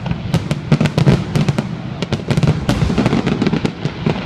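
Fireworks exploding in a dense, rapid volley: many sharp bangs and crackles in quick succession over a low rumble.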